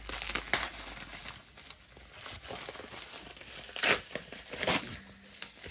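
Plastic packaging being handled, crinkled and torn open, with sharp, loud rips about four seconds in and again just before five seconds.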